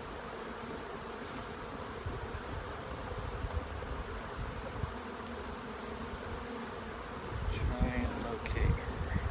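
A swarm of honey bees buzzing steadily around an open hive box. Near the end a few louder low rumbling bumps are heard.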